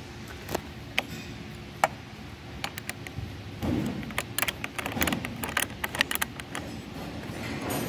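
Hand tools working on a car battery terminal: a string of sharp metallic clicks and light clanks, starting a few seconds in and coming thickest near the end, with some rustling in the middle.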